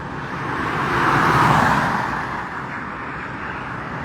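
A car passing by on the road, its tyre and engine noise swelling to a peak about a second and a half in and then fading, over steady traffic noise.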